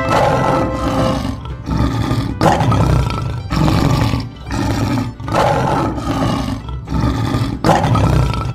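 Lion roaring over and over: about eight rough roars in a row, each a second or so long, with short breaks between.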